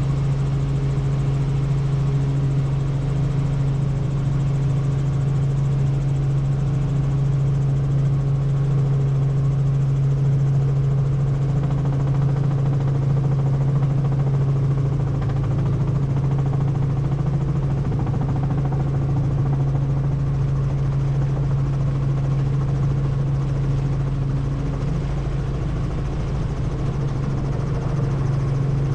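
Helicopter running with a steady drone of engine and rotor, dominated by an unchanging low hum.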